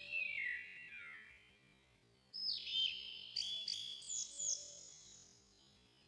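Birdsong played back slowed down, so it sounds pitched-down and synthetic: a falling whistled sweep, then, about two seconds in, a louder phrase of several quick slurred notes.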